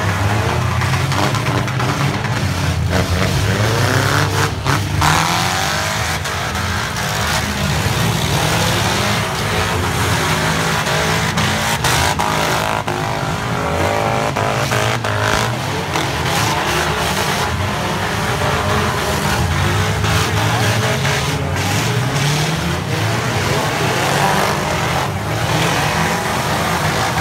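Four-cylinder demolition derby cars running hard, engines revving up and down, with repeated crashes of cars hitting each other and some tire squeal.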